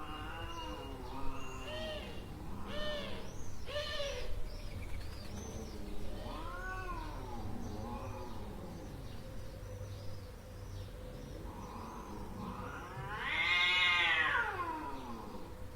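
Cat yowling and meowing: a string of cries that each rise and fall in pitch, the loudest a long drawn-out yowl near the end.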